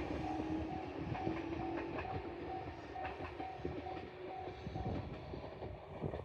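Tobu Isesaki Line electric train running on, its wheels clicking over the rail joints, fading as it moves away.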